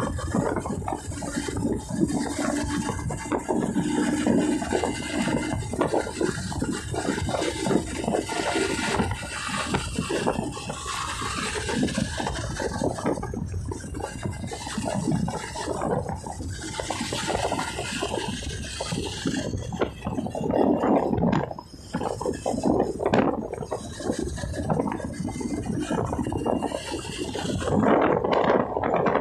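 Wind rushing and buffeting over the microphone of a camera riding on a moving Honda TMX 125 motorcycle, a rough, ever-changing noise that drops briefly about two-thirds of the way through.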